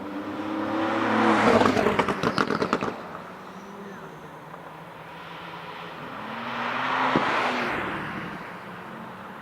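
Cars passing at speed on a race track, two in turn. The first is loud, swelling up and fading away, with a rapid rattle of exhaust crackles as it goes by about two seconds in. The second is quieter and passes around seven seconds in.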